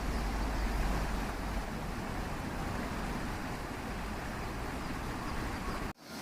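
Steady rushing of a small river flowing over its bed, with a low rumble underneath; the sound cuts out abruptly for a moment near the end.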